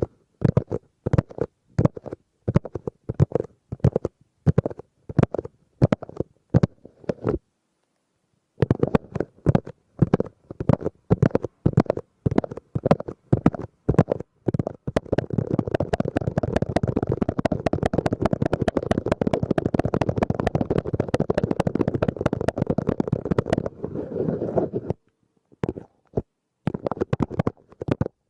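Close-miked ASMR tapping: quick, muffled taps in irregular clusters. They stop for about a second around seven seconds in, then run together into a fast, unbroken flurry through the middle and later part, and thin out to scattered taps near the end.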